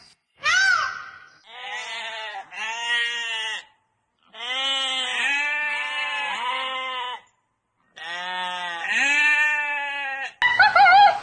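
Animal bleating: a short high call, then a series of long, wavering calls with short silences between them. Near the end it cuts to a different, higher-pitched call.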